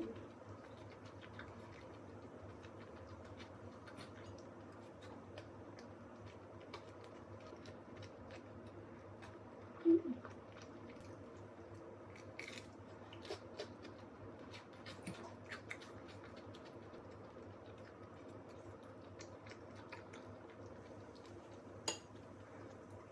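A person eating: faint chewing and light clicks of utensils and dishes over a steady low room hum, with one short louder blip about ten seconds in.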